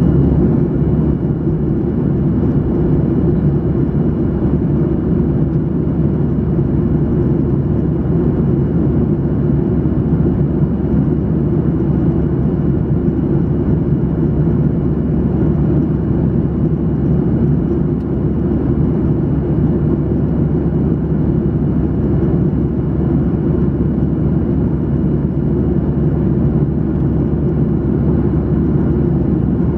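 Steady in-flight cabin noise of a Boeing 737-800: an unchanging low rush of airflow and CFM56 engine noise, with a faint steady high tone.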